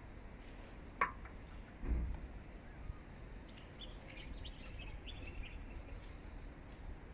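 Birds chirping in short high calls a few seconds in, over a low background rumble of outdoor noise. A sharp click about a second in and a low thump about two seconds in stand out above it.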